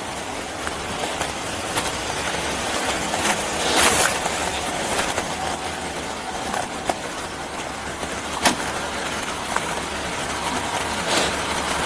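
A motor vehicle's engine idling as a steady low rumble under outdoor noise, with a few short clicks.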